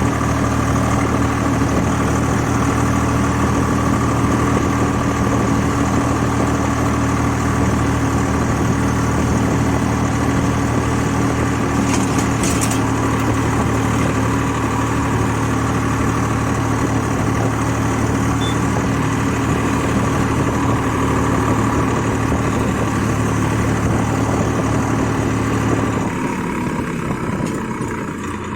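Swaraj 855 FE tractor's three-cylinder diesel engine running steadily. Near the end the engine note drops and gets a little quieter.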